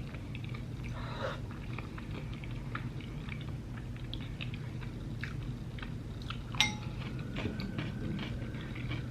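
Close-up chewing and small mouth sounds of someone eating tteokbokki, with scattered light clicks of utensils and one sharp clink about six and a half seconds in.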